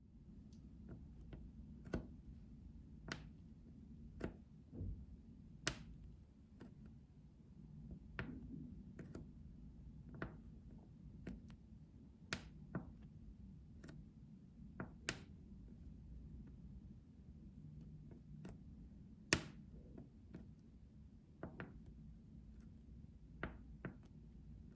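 ASMR trigger sounds: faint, light taps and clicks coming irregularly about once a second, one sharper click about 19 seconds in, over a soft steady low hum.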